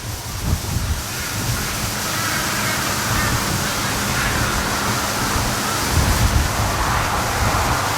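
Strong, gusty wind buffeting the microphone, a steady rushing noise with heavy low blows, loudest at the very start and again about six seconds in.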